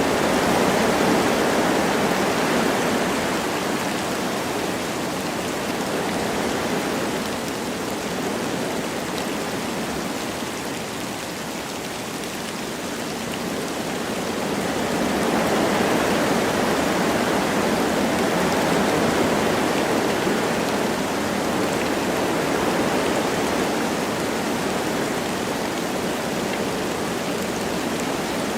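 Wind blowing through forest trees with light rain, a steady rush that swells in gusts and eases off.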